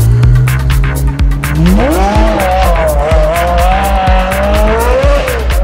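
Electronic music with a fast, steady beat, over which a high-revving supercar engine climbs sharply about two seconds in and holds a high, wavering note.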